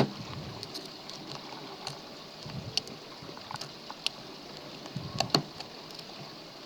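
Lock pick and tension wrench working the pins of a pin-tumbler lock: scattered small clicks and metallic taps as the pins are raised and spring back, the strongest pair about five seconds in.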